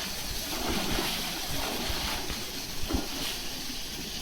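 Pool water splashing and sloshing as an Asian elephant moves in it, with a few dull thumps, the loudest about three seconds in.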